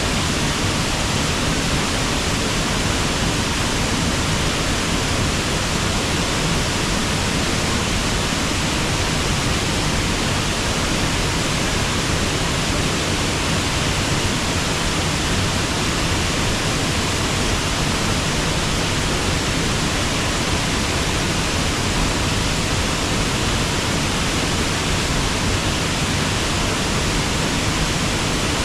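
Steady rush of water pouring over a river waterfall, an even, unbroken noise with no separate events.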